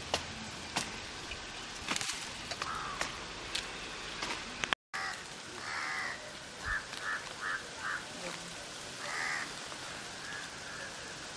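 A few sharp clicks, then a run of short bird calls, about three a second, over steady outdoor background noise.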